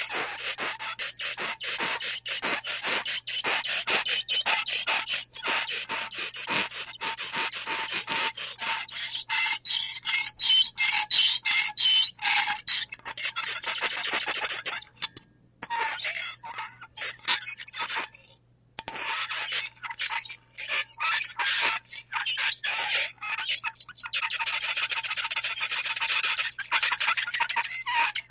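Harsh scraping and squeaking, many quick rough strokes with shrill squealing tones over them, like something hard rubbed or scraped across a surface. It stops briefly twice, about halfway through.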